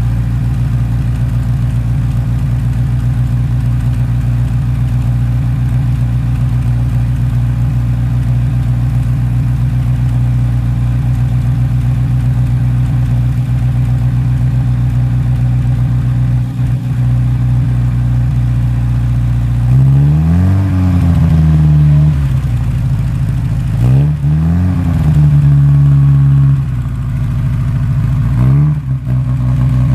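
1960 Moskvich 407's four-cylinder engine idling steadily as it warms up after a winter cold start. In the last ten seconds it is revved several times, each blip rising in pitch and falling back to idle.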